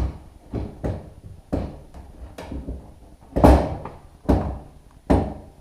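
A series of sharp knocks and clunks, about one a second, from wooden doors and parts being handled and set down. The loudest comes about three and a half seconds in.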